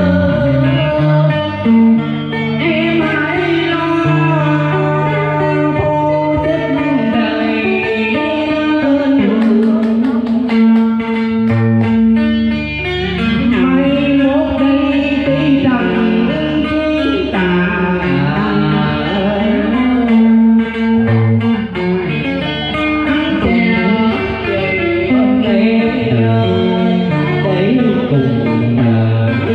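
Vietnamese scalloped-fretboard guitar (ghi ta phím lõm) playing cải lương accompaniment, its plucked notes bending and sliding in pitch.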